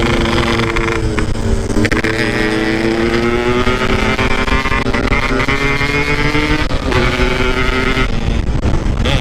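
Motorcycle engine running while riding. The revs slowly climb and then dip sharply a few times, about two seconds in and again near seven and eight seconds, over a steady low rumble.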